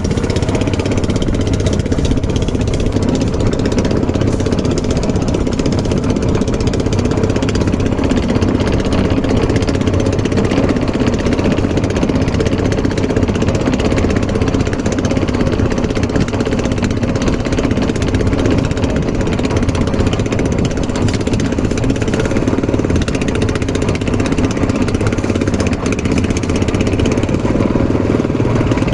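Engine running steadily at an unchanging speed.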